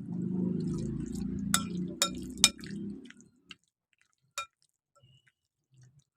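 Boneless chicken pieces being mixed in a thick, wet marinade of cornflour, egg and sauces: squelching for about three seconds, with three sharp clinks against the bowl near its end and one more a little later, then near quiet.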